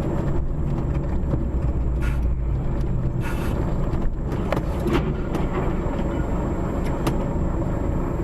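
A car driving along, with steady engine and road rumble and a few brief knocks.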